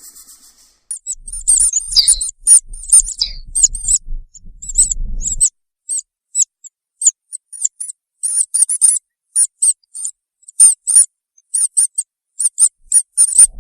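Small animal giving many short, high-pitched chirps in quick, irregular runs, with a low rumble under the first few seconds.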